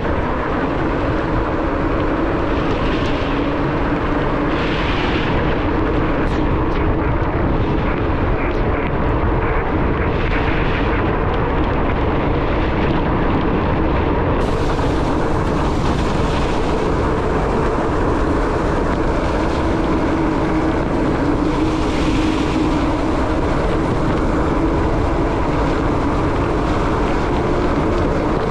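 Steady rush of wind and tyre noise from a bicycle ridden on rain-soaked roads, with a few brief louder hisses.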